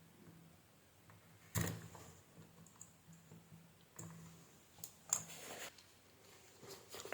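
A few sharp clicks and light knocks, the loudest about a second and a half in, with a faint low hum coming and going underneath.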